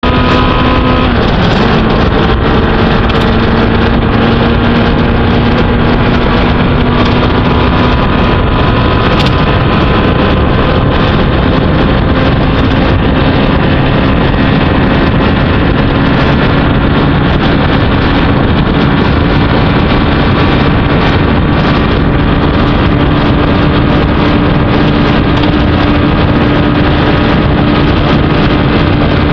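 Kawasaki GPZ900R's inline-four engine running steadily at road speed under heavy wind noise on the microphone; its note dips about a second in, then climbs slowly through the rest.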